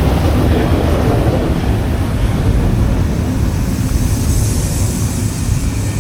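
Train running on the line: a steady, loud, low rumble that fades slightly towards the end.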